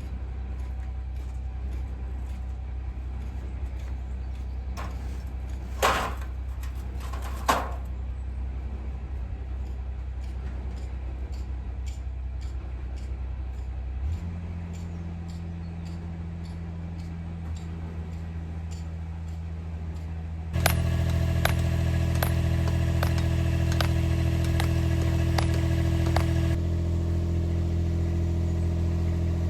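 An engine running steadily, shifting to a higher speed about halfway through and then running louder and faster about two-thirds of the way in. Two short squeaks sound over it in the first third.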